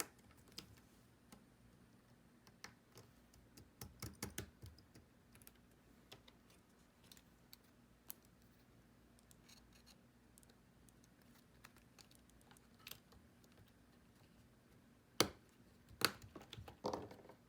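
Scattered small clicks and taps of handling a phone logic board and its parts on a repair bench, with a cluster about four seconds in and two sharper clicks near the end, over a faint steady hum.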